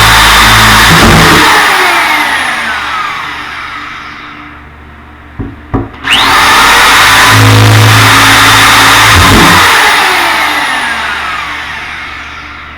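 Electric power drill running at full speed, then released and winding down with a falling whine over a few seconds. After two clicks it starts again with a quick rising whine, runs, and winds down once more, part of drilling holes into a cracked fiberglass shower base.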